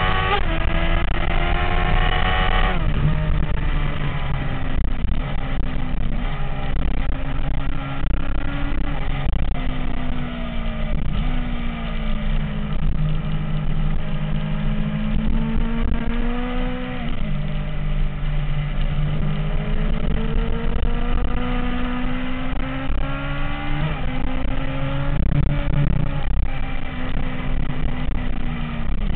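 MV Agusta F4's inline-four engine under way. It revs up in the first few seconds, drops sharply as a gear is changed, then rises and falls gently several times.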